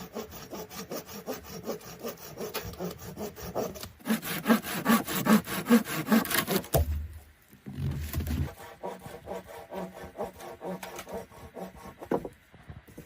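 Hand saw cutting with quick, regular back-and-forth strokes. The strokes get louder for a few seconds in the middle, break off briefly, then go on more lightly and stop near the end.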